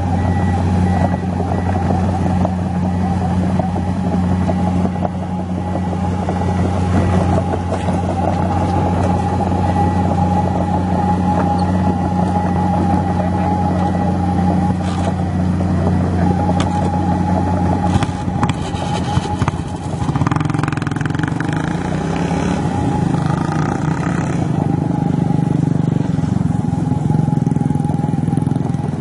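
Komatsu PC200 excavator's diesel engine running steadily under working load. A few knocks come partway through, and the engine note changes about two-thirds of the way in.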